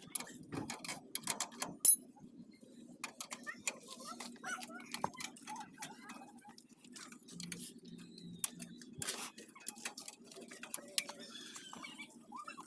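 Irregular clicks and clinks of hand tools on motorcycle wheel and sprocket-hub parts, with one sharp knock about two seconds in, over a low steady hum.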